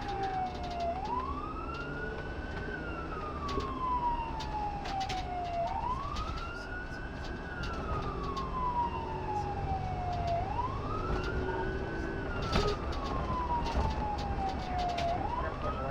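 Police car siren in wail mode: a tone that rises quickly and falls slowly, repeating about once every five seconds, over a low steady rumble.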